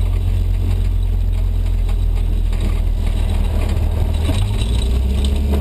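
Race car engine running steadily, heard from inside the cabin as a loud low drone, with a change in its pitch about four and a half seconds in as the car rolls off the grass back toward the track.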